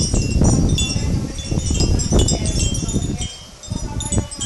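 Wind chimes tinkling in gusty wind as a storm approaches, with the wind buffeting the phone's microphone in a heavy low rumble. The gusts ease briefly about three seconds in.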